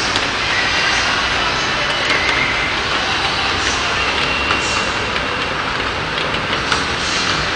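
Heavy rain pouring down in a steady, dense hiss, with a few short sharp clicks.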